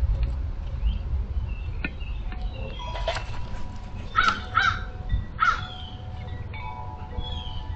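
Crow cawing, a few harsh caws in quick succession past the middle, with smaller birds chirping faintly throughout.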